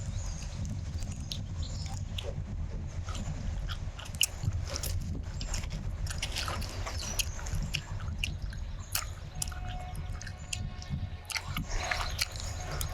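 Close-miked mouth chewing soft Maoam fruit chews, with irregular wet clicks and smacks of teeth, tongue and lips over a low steady hum.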